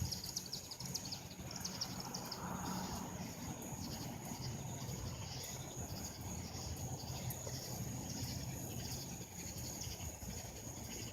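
Night insect chorus: katydids calling in an even, rhythmic pulsing over a steady high-pitched trill, with a faint steady low hum beneath.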